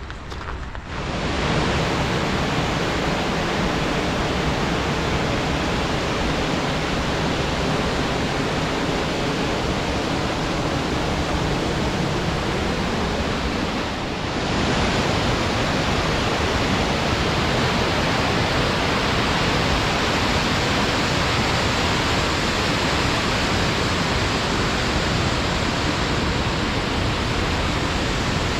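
Rushing water of the Potomac River's falls and rapids: a steady, loud hiss that sets in about a second in, with a brief dip about halfway through.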